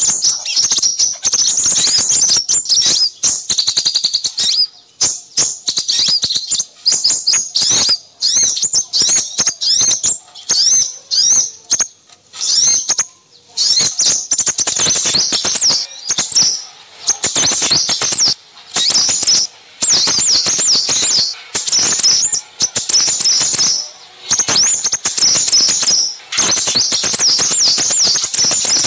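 Small songbirds twittering in a dense, unbroken stream of rapid high-pitched chirps and trills, with only brief gaps: a noisy small-bird lure recording of the kind used to draw in crimson sunbirds.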